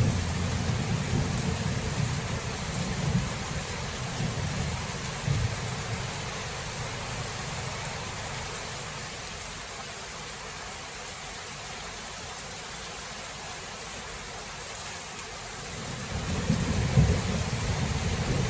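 Thunderstorm: steady rain hiss with rolling thunder. The low thunder rumble fades away over the first few seconds, leaving rain alone, then thunder rumbles up again near the end.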